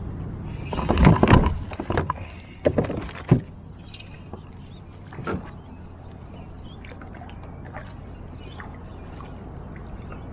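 Knocks and clatters on a plastic fishing kayak's hull and fittings, a cluster of sharp hits in the first few seconds and one more a little later, as a just-landed bream is handled aboard; then a low steady background with faint small clicks.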